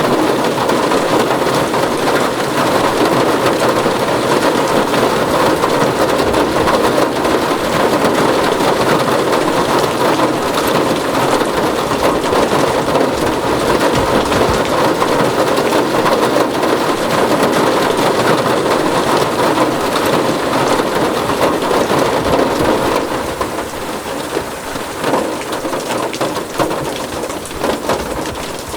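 Heavy rain drumming steadily on a tin roof, a dense patter of drops. It eases somewhat and grows patchier about three-quarters of the way through.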